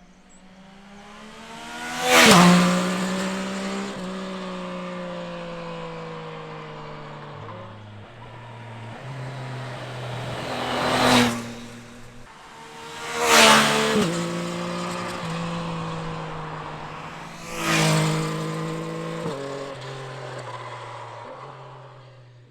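Yamaha Tracer 9 GT+ motorcycle's 890 cc inline-three engine running under way. It swells loud four times as the bike comes close. Between the swells the pitch drops in steps as it changes gear, and it fades away near the end.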